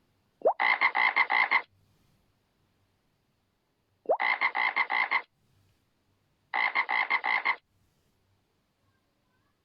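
A frog croaking in three bouts, each a quick rattling series of about eight to ten pulses lasting about a second.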